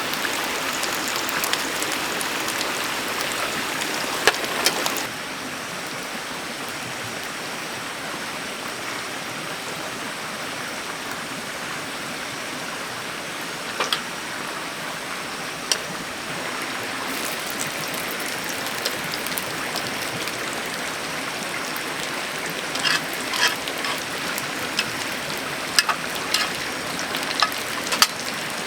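Steady hiss of water, with scattered sharp drips and ticks, most of them near the end. The sound drops suddenly and becomes duller about five seconds in.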